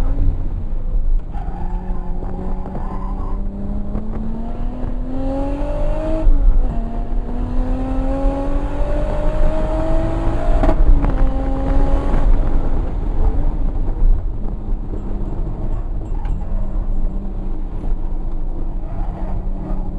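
Turbocharged 2JZ-GTE inline-six of a Toyota Supra under hard acceleration, its pitch climbing, dropping at an upshift about six seconds in, then climbing again. A little before halfway it drops sharply and then runs at lower, steadier revs, over a heavy low rumble.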